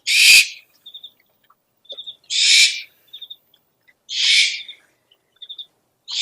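An owl giving harsh, hissing screeches, each about half a second long, repeated about every two seconds: three in full, with a fourth starting at the very end. Between the screeches come short clusters of three or four quick, high chirps.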